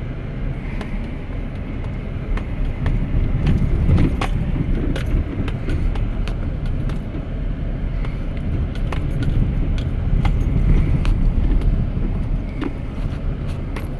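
Truck engine pulling steadily in four-wheel-drive low up a steep, rocky dirt track, with frequent sharp knocks and rattles as the tires go over large loose rocks.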